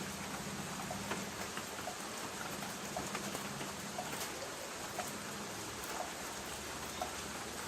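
Light rain falling on a tin roof: a steady hiss with frequent sharp ticks of single drops striking the metal.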